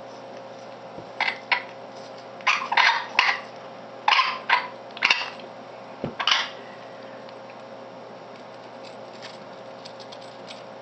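Conure feeding from its dish: a run of about eight short, sharp clicks and clacks of beak on dish and fruit over the first six seconds, then only a low steady background.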